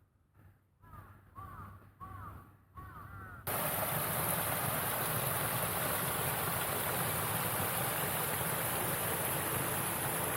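A crow cawing four times. About three and a half seconds in, a loud steady rushing noise cuts in suddenly and carries on.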